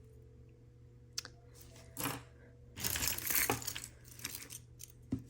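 Small jewelry pieces clicking and clattering as they are picked up and handled, with a louder rattling stretch about three seconds in.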